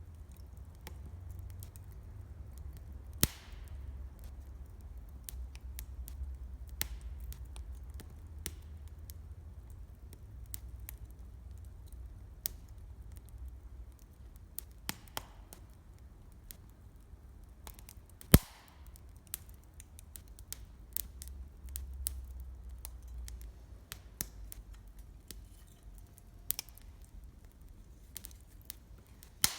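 Wood fire crackling with scattered sharp pops, two loud ones about three seconds in and just past the middle, over a low steady rumble.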